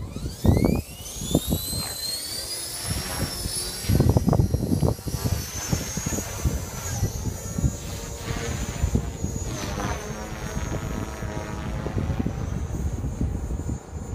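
ALZRC Devil 480 electric RC helicopter spooling up: its motor and rotor whine rises steeply over the first two seconds, then holds a steady high pitch with small dips. Strong wind buffets the microphone, loudest in gusts about half a second and four seconds in.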